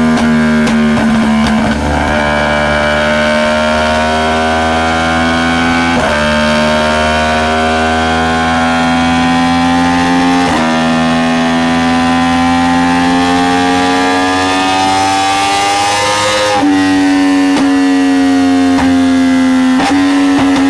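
Yamaha R1 inline-four engine through an aftermarket exhaust, running under load with its pitch climbing slowly. The note breaks briefly about six and ten seconds in and jumps higher near the end.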